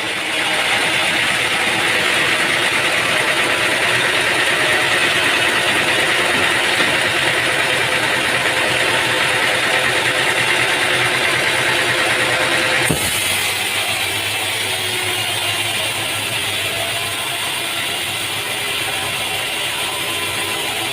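Sawmill machinery running steadily, a continuous mechanical din; about 13 seconds in it cuts abruptly to a somewhat quieter mechanical running sound.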